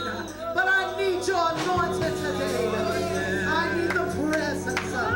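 Gospel praise team singing with keyboard and bass accompaniment: wavering, held vocal lines with no clear words over sustained low chords.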